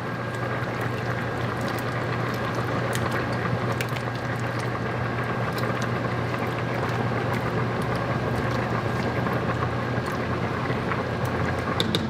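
Steady hiss of a pot simmering on the stovetop over a low hum, with scattered light clicks.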